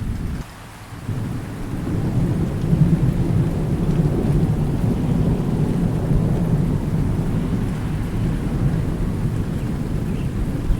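Steady rain with thunder: a deep, rolling rumble that dips briefly near the start, swells about two seconds in and keeps rumbling to the end.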